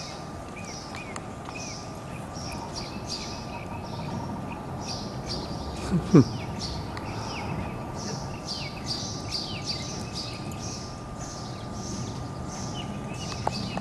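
Birds chirping over an outdoor background, short calls repeating about twice a second, with a faint steady high tone under them. About six seconds in comes one brief, loud sound that drops quickly in pitch.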